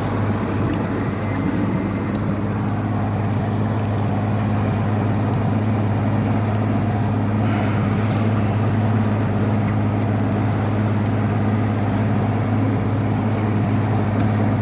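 Boat motor running steadily, a constant low drone with no change in speed.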